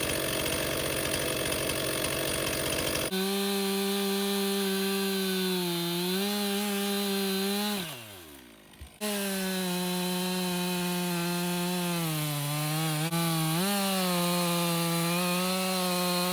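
Two-stroke chainsaw running at high revs, its pitch dipping and recovering again and again as if bogging under load. About 8 s in the engine winds down and fades, then a second run starts abruptly and carries on.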